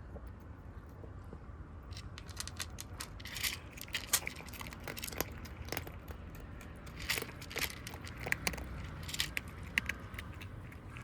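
Kittens eating, crunching their food in an irregular run of sharp crunches that starts about two seconds in.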